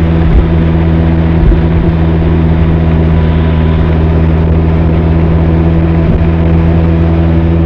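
Benelli TRK 502's parallel-twin engine and exhaust running at a steady cruise, the note holding one constant pitch, with a steady hiss of wind and road behind it.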